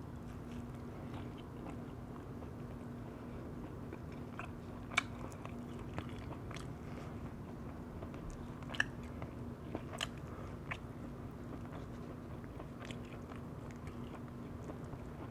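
Close-up eating sounds of someone chewing roast chicken, with scattered sharp mouth clicks and smacks, over a steady low hum.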